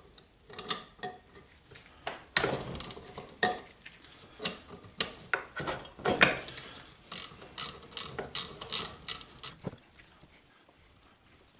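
Ratchet wrench clicking in short, uneven runs as the connecting rod cap bolts of a Briggs & Stratton 3.5HP engine are loosened. The clicking stops about ten seconds in.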